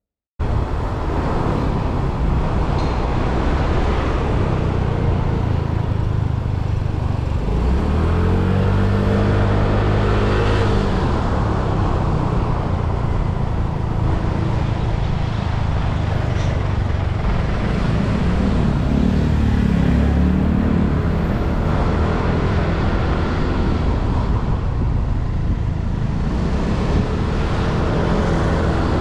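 Riding a motorbike in street traffic: steady wind and road noise with engines running, and engine pitch rising and falling three times, about a third of the way in, about two-thirds of the way in, and near the end.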